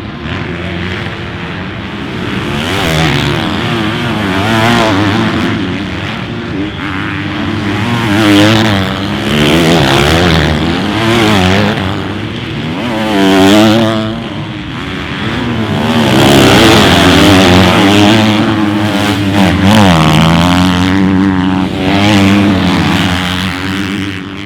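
Several motocross bikes racing, their engines revving up and down through gear changes and overlapping, with the sound swelling and easing as they pass.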